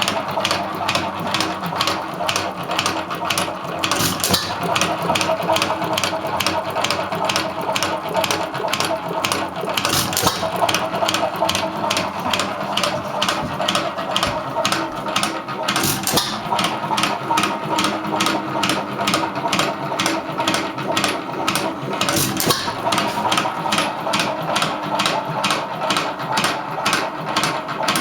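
1.5 hp Hercules hit-and-miss stationary engine running, with a quick, even clatter of about four beats a second and a louder stroke about every six seconds, the firing strokes between coasting cycles of a hit-and-miss governor.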